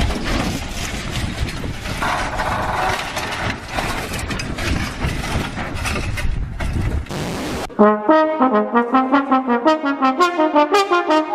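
Loud, even rushing noise with no clear pitch, cut off suddenly about three-quarters of the way through by a brass tune: a run of short, quick notes, several a second, stepping up and down in pitch.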